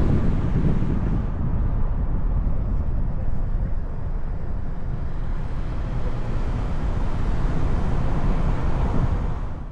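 Outdoor roadside noise: a steady low rumble and hiss from road traffic and wind on the microphone. The high hiss thins out about a second in and comes back about halfway through.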